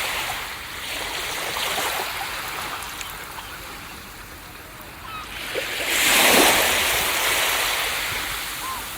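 Ocean waves breaking on a beach: surf washes up and drains back, then a bigger wave crashes about six seconds in and slowly fades.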